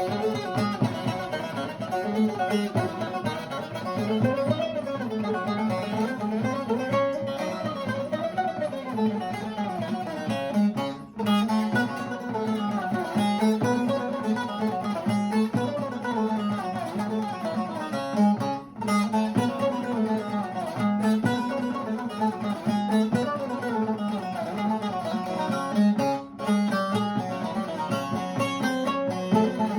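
A plucked string instrument playing a longa in makam Nihavent: fast running melodic lines, broken by three brief pauses.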